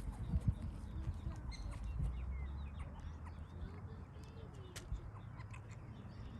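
Scattered short chirps and calls from small animals, over a low rumble of wind on the microphone.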